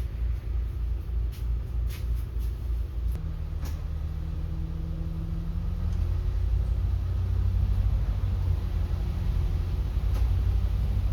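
City bus engine and drivetrain rumbling inside the bus, pulsing at first, then a steady engine tone comes in about three seconds in and the rumble grows gradually louder. A few faint clicks sound over it.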